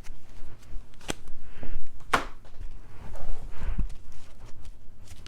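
Tarot cards being handled on a table: a few sharp taps and soft sliding rustles as cards are drawn and laid down.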